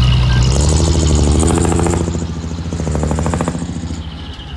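Heavy diesel earthmoving machine engine running, with a rapid clattering rattle from about half a second in that eases off near three and a half seconds.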